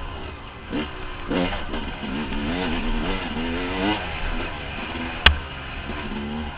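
Dirt bike engine revving up and down as the throttle is worked over rough trail. There is one sharp knock a little after five seconds in.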